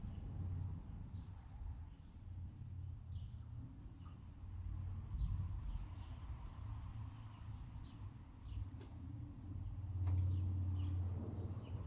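Low, distant thunder rumbling under the repeated short chirps of small birds; the rumble swells about ten seconds in.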